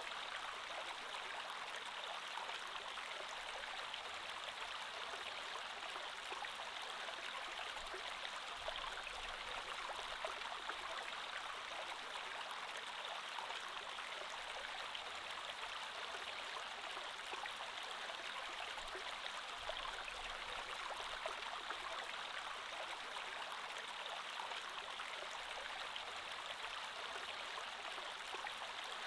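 Creek water flowing steadily over stones, an even rushing babble with no change.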